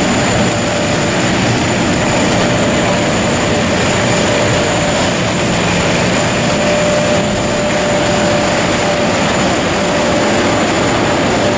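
Aircraft engine noise: a steady, dense rush with a constant high whine running through it.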